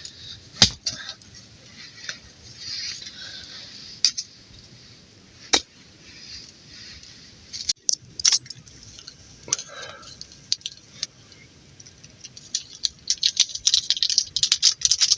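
Camp cookware clinking: a metal pot and utensil knocking in separate sharp clinks, with a dense run of fast, crackly clicking near the end.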